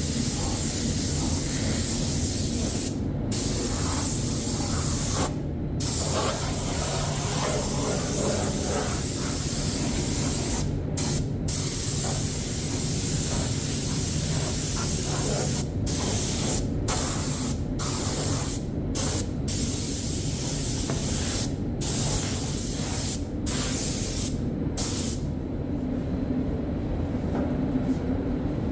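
Compressed-air spray gun spraying water-based bodywork primer, a steady hiss that breaks off for a moment about a dozen times as the trigger is let go between passes. A steady low hum runs underneath, and the hiss thins out over the last few seconds.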